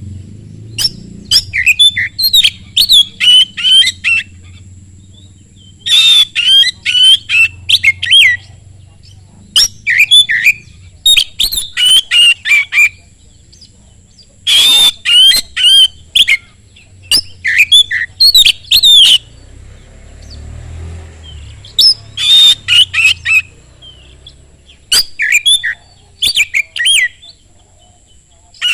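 An Oriental magpie-robin (kacer) singing at full pace. It sings loud bouts of fast chirps and whistles, each a second or three long, with short pauses between them.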